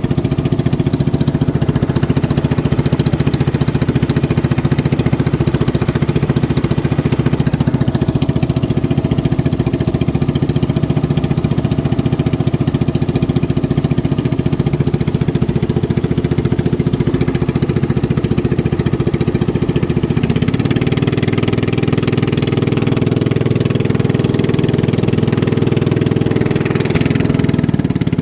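Boat engine running steadily, with its pitch stepping up a little about twenty seconds in.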